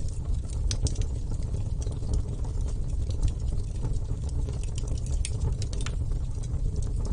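Wood bonfire burning: a steady low rumble of flames with frequent, irregular sharp crackles and pops from the burning wood.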